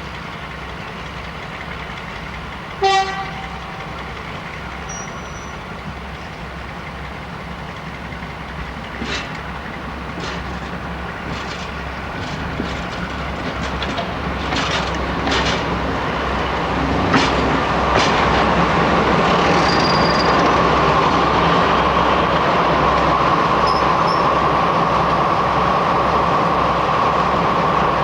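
Diesel locomotive running with a low steady throb, giving one short horn blast about three seconds in; then the train draws closer and grows louder, with clicks and clatter from the wheels and a steady hum in the last ten seconds.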